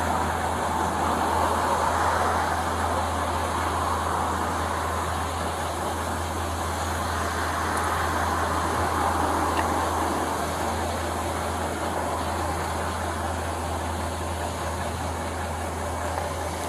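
Steady traffic noise with a constant low hum underneath.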